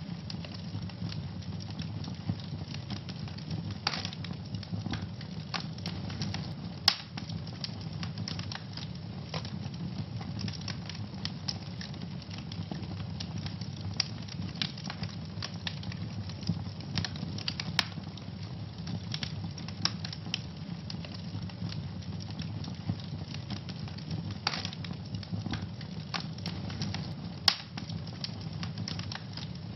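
Wood fire burning in a fireplace: dense crackling over a steady low rumble, with a few sharper, louder pops about 7, 18 and 27 seconds in.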